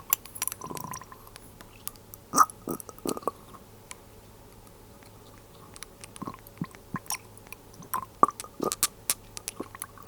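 Glass dropper bottles and their lids handled close to the microphone: scattered small clicks and taps in clusters, with a quieter pause in the middle.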